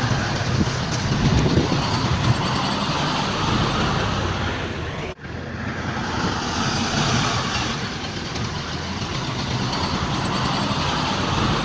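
Heavy diesel construction machinery running steadily: a low engine drone under a broad noisy wash. It drops out for an instant about five seconds in and picks straight up again.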